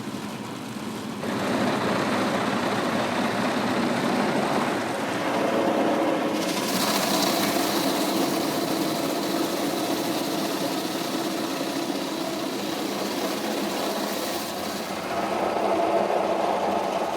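Car wash machinery running with a steady mechanical hum. A hiss of water spray starts suddenly about six seconds in and stops near the end.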